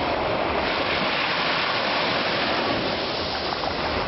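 Sea waves washing onto the shore: a steady, even rushing of surf.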